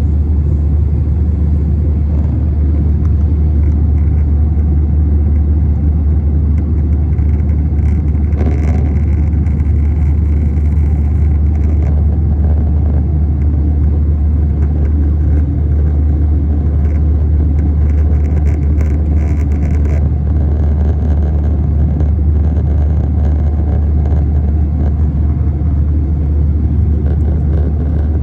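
Airbus A321 passenger cabin noise in flight: a steady, loud low drone of the jet engines and airflow, with no change in level.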